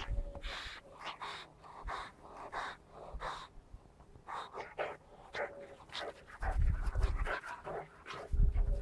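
Boxer puppy panting in quick, regular breaths, with a few low bumps in the second half.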